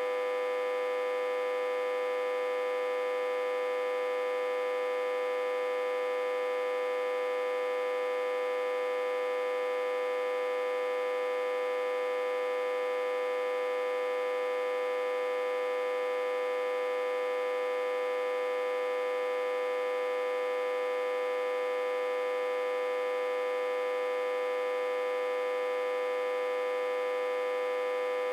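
Autotransformer humming: one steady, unchanging tone with many overtones. It is driven at about 60–80 V through a step-down transformer connected in reverse.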